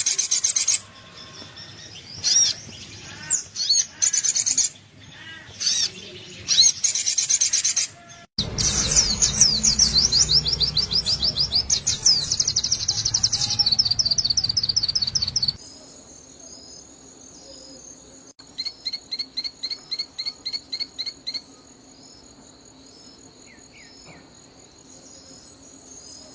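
Sunbird calls: high, sharp chirps and rapid trills in sections that change abruptly, with a fast trilled run over a low rumble in the middle. Near the end a steady high whine runs underneath, and about a dozen evenly spaced chirps come at roughly five a second.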